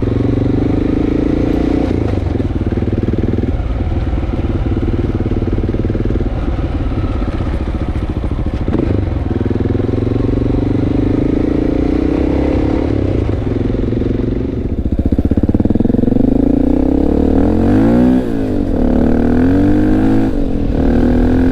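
Honda XR650L's single-cylinder four-stroke engine pulling the motorcycle along, running loud and steady. In the last several seconds the engine pitch rises and falls repeatedly as the throttle is worked through the gears.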